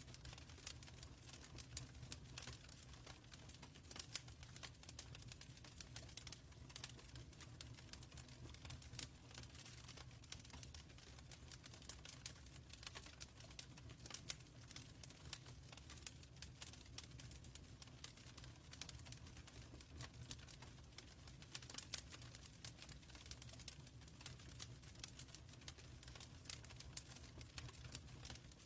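Faint wood fire crackling in a fireplace: irregular small pops and snaps, a few of them sharper, over a steady low rumble.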